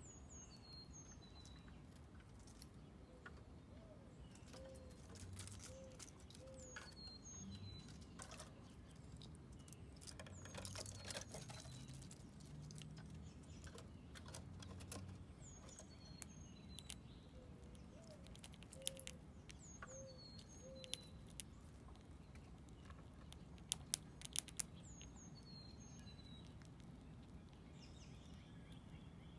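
Faint outdoor ambience with wild birds calling: a high chirping call repeats every several seconds, and a low call of four notes comes twice. Several sharp clicks stand out in the second half.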